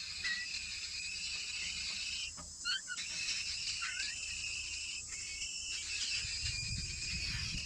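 Insects, crickets or cicadas, buzzing steadily in a high pitch with brief breaks, while a few short rising chirps sound over them. A low rumble comes in near the end.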